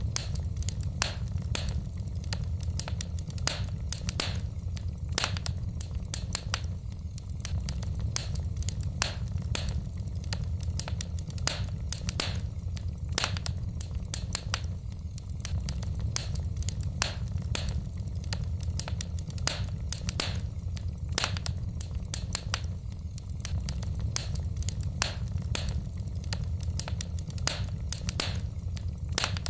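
Wood fire in a fireplace crackling, with a steady stream of sharp pops and snaps from the burning logs over a steady low rumble.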